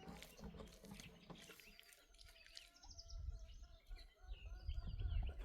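Faint bird calls: short high chirps and a chicken clucking, with a low rumble starting about three seconds in.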